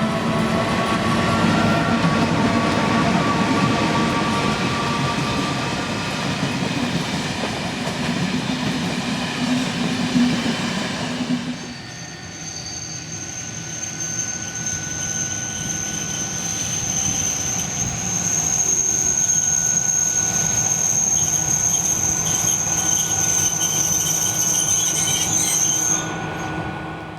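A train running past, loud with a steady hum and whine for about the first eleven seconds. Then a long, steady high-pitched squeal of train wheels on the rails that cuts off shortly before the end.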